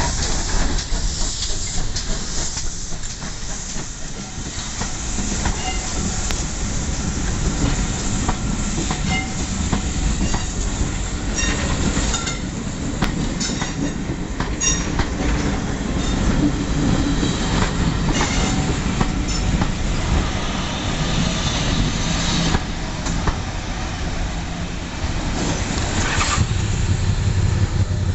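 Passenger train hauled by GWR 5700 class pannier tank steam locomotive 9681 rolling past, its coaches' wheels clacking steadily over the rail joints and crossing, with a few brief squeals from the wheels around the middle.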